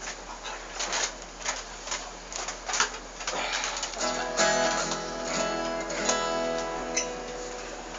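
Scattered light knocks and taps, then about halfway through an acoustic guitar is strummed and the chord left to ring, struck again a little later.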